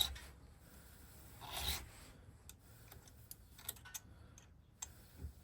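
Two short scraping strokes, about a second and a half apart, then a few light clicks: a metal key and ignition lock being handled and worked by hand.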